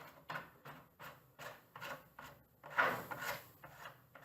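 A table's threaded screw fitting being twisted by hand: a run of short, faint rubbing and scraping strokes, a little louder about three seconds in.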